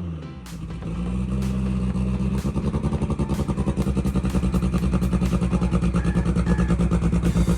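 Turbocharged Honda Civic drag car's engine held at revs on its two-step launch limiter: a steady drone chopped by a rapid, even stutter of cut-outs and bangs. The sound cuts off suddenly near the end.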